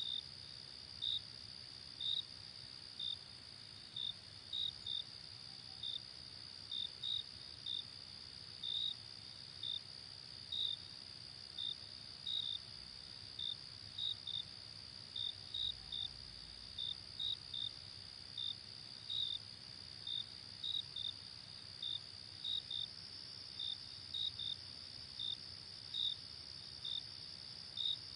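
Night insects: a steady high insect trill with crickets chirping over it in short chirps, irregularly, one or two a second.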